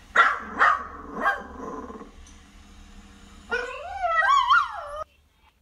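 Dog barking three times in quick succession, then a wavering whine that rises and falls in pitch for about a second and a half and cuts off suddenly.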